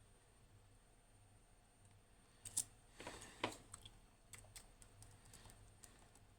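Faint small metal clicks and scratching of a hook pick working the pin stack of a padlock's 5-pin ABUS cylinder under tension, with a sharper click about two and a half seconds in and a short scrape about a second later.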